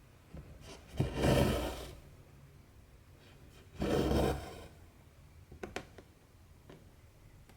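Cotton embroidery thread pulled through cross-stitch fabric, two rasping draws of about a second each, followed by a few faint ticks.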